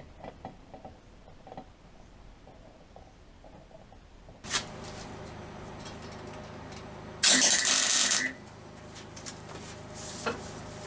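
A steady machine hum comes on about halfway in. Near the end comes a loud, abrupt burst of about a second of crackling hiss, typical of a MIG welder laying a short tack weld on a steel mounting bracket. Light clicks and taps of handling come before and after.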